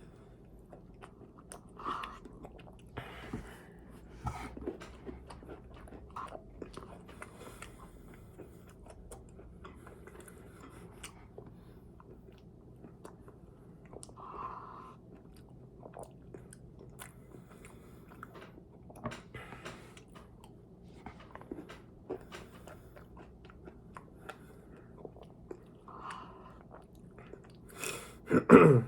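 Close-up chewing and biting: wet mouth clicks and smacks of a person eating, with a few brief short hums and one louder knock near the end.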